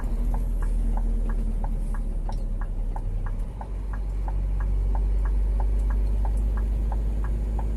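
Scania G 410 truck's diesel engine running low and steady, heard from the cab, dipping briefly about halfway through. Over it, a flasher relay ticks evenly, about three clicks a second.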